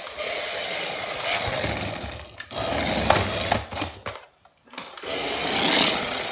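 1/10-scale RC car's motor and tyres running in three bursts, with short pauses about two and a half and four seconds in, as the car is driven off and on.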